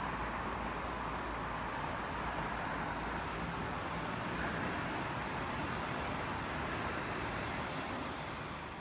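Steady rushing outdoor noise with no distinct events, fading out near the end.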